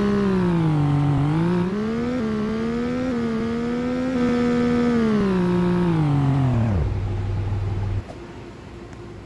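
Ryko Radius automatic car wash machinery running with a loud motor whine whose pitch wavers up and down. About seven seconds in the whine falls sharply as the motor winds down, holds a low hum for a moment, then cuts off, leaving only a faint hiss.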